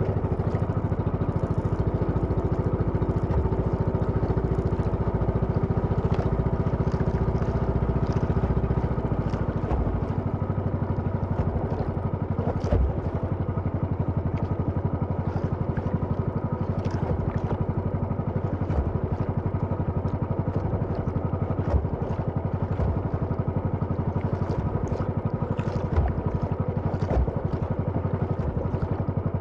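Small engine running steadily at a constant speed, a little louder for the first nine seconds, with a few short knocks over it.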